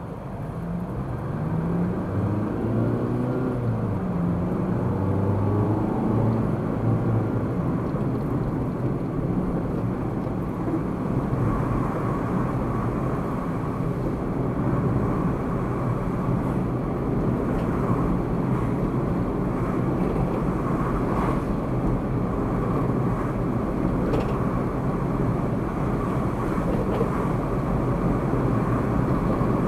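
Car engine rising in pitch as the car accelerates in the first few seconds, then steady engine and road noise while it drives on.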